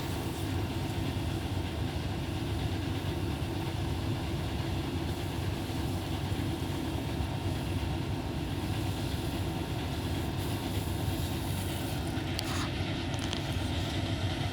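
A machine running with a steady low rumble, with a few faint clicks about twelve seconds in.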